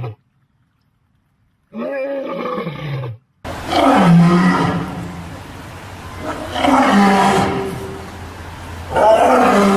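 An animal giving loud, drawn-out roaring calls. One call comes about two seconds in, then after an abrupt change of background three long calls follow, roughly every two to three seconds.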